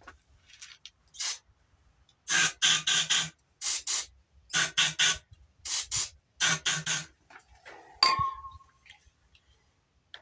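Aerosol starting fluid hissing out of its can in short squirts, in quick groups of two to four, sprayed down the carburetor throat of a Briggs & Stratton 18 hp opposed-twin engine to get it to fire. About eight seconds in, a single metallic clink with a brief ring.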